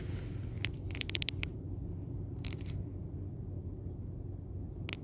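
A car engine running with a steady low rumble, overlaid by sharp clicks: a single one, then a quick run of about five about a second in, another near the middle, and a couple more near the end.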